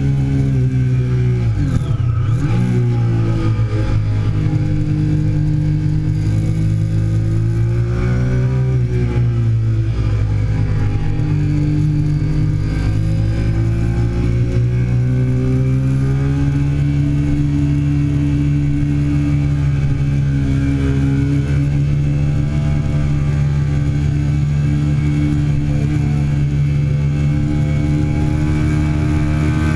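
A 2008 Triumph Daytona 675's three-cylinder engine at speed on track, heard from the bike itself. The pitch drops sharply about two seconds in as the revs fall for braking, climbs and dips again, then holds high and steady through the second half.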